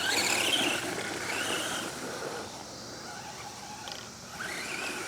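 Redcat Volcano EPX RC truck's brushed electric motor and gears whining, running on a 2-cell LiPo. The whine rises and falls with the throttle, dies down through the middle, and climbs again near the end.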